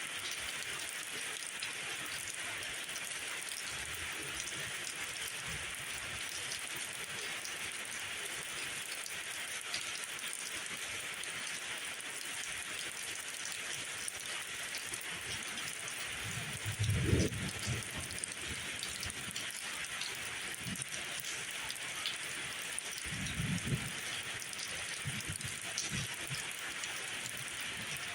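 Steady rain falling on a surface. Two short, low thumps stand out, the louder one a bit past halfway and a softer one later.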